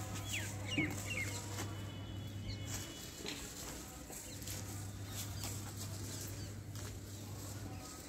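Birds chirping and calling, over a steady low hum that drops out briefly about three seconds in.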